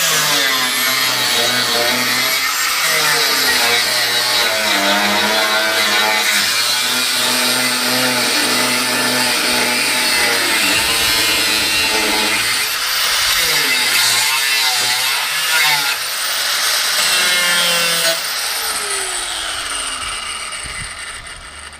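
Power tool cutting into a Land Rover Series III's steel bulkhead, its motor pitch rising and dipping as it bites. The motor winds down near the end.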